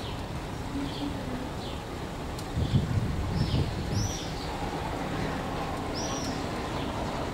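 Small birds chirping, short arched chirps about twice a second, over a steady low rumble. A brief, louder low rumble comes about three seconds in.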